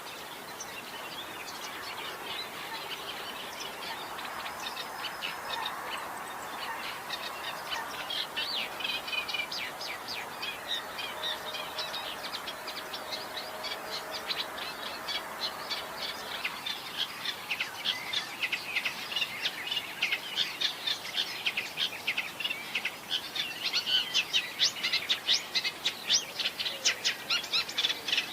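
Great reed warbler singing: a long run of rapid, harsh repeated notes that grows louder in the second half.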